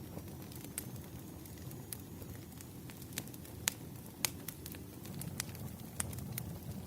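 Firewood burning, crackling with irregular sharp pops over a low, steady rumble.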